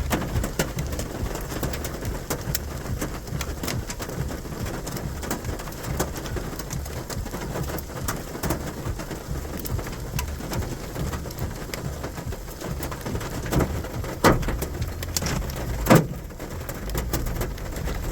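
Rain falling, with many sharp drops striking close by over a low rumble. Two louder hits come near the end.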